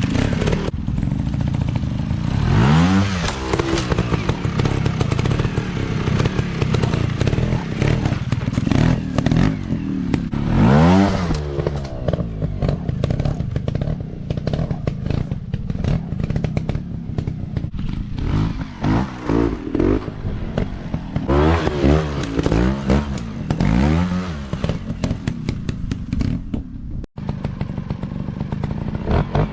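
Motocross dirt bike engine revving up and falling back again and again, with clattering knocks mixed in. The sound cuts out for an instant near the end.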